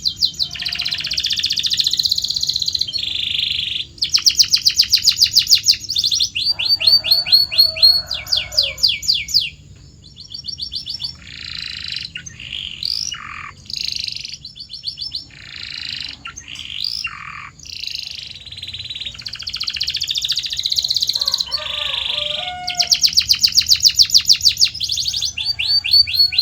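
Domestic canary singing: long rapid trills of quickly repeated notes, broken in the middle by a run of separate falling, swooping notes, then fast trills again.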